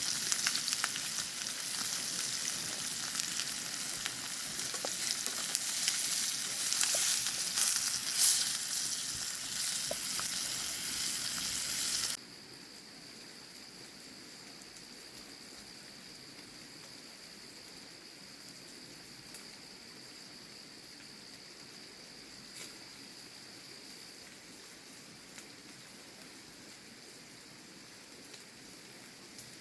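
Food frying in a pan over a camp fire, a dense sizzle with fine crackles. About twelve seconds in it cuts off abruptly to a much quieter steady hiss with a thin, steady high tone that stops near the end.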